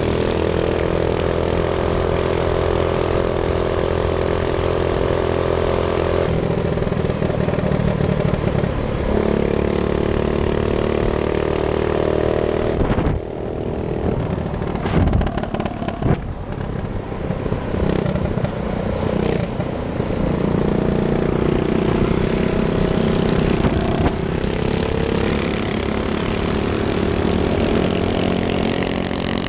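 Minibike engine running under way, its pitch stepping up and down with the throttle. Around the middle it drops back, with a few sharp knocks, then picks up again.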